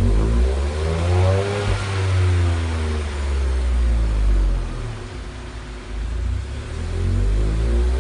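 Ford Fiesta 1.0 three-cylinder engine through an aftermarket dual-exit sport rear muffler, revved up and let fall back toward idle, then revved again near the end.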